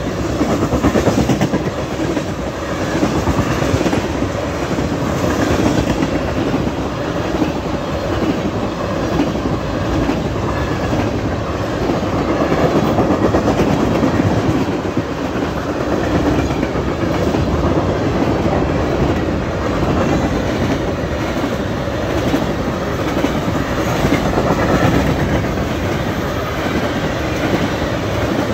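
Freight cars of a long manifest train, tank cars among them, rolling past at speed: a steady rumble with the wheels clickety-clacking.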